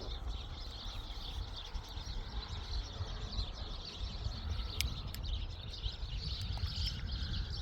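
Small birds chirping continuously in a dense chorus, over a steady low rumble, with two faint clicks about five seconds in.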